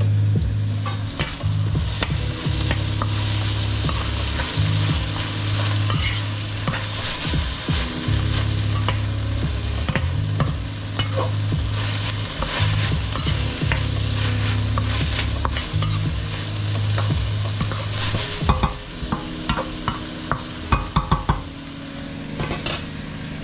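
Food sizzling in a frying pan while a utensil stirs and scrapes through it, over a steady low hum. A run of sharp knocks comes near the end.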